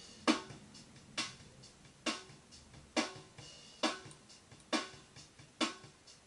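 Acoustic drum kit playing a slow, steady beat: a sharp, ringing accented hit about every second, with lighter strokes between.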